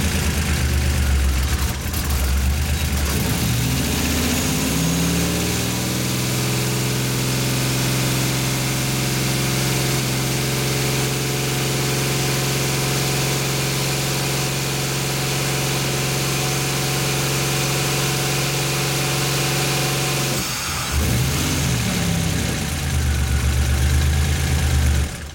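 Turbocharged Buick V6 running with both #3 injectors unplugged, so it misses on that cylinder. It starts at idle, and its speed rises over a few seconds and holds steady. About twenty seconds in it drops suddenly and wavers back down to idle.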